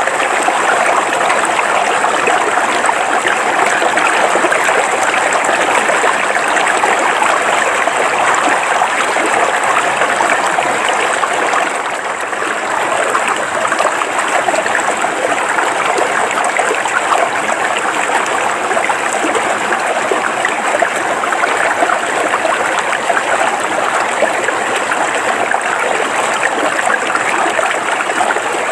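River water flowing steadily over rocks, an even rushing and splashing with no breaks.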